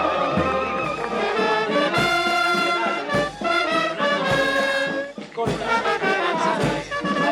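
Brass band playing, with trumpets and trombones holding notes over a low drum beat about once every second and a bit.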